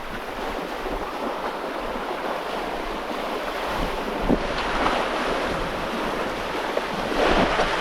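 Water rushing and splashing along a sailboat's hull as it sails briskly through small waves, with wind buffeting the microphone.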